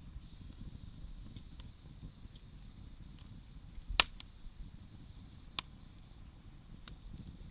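Wood campfire crackling: scattered sharp pops from the burning wood, the loudest about four seconds in and another a second and a half later, over a low steady rumble.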